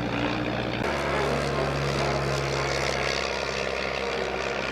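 Piston engine of a light vintage propeller aircraft running steadily, its engine note shifting about a second in.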